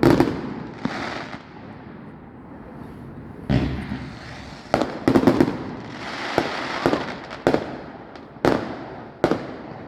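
Fireworks display: a string of sharp bangs from bursting aerial shells, about one every second or so, with crackling and rumbling echo after each, some coming in quick clusters.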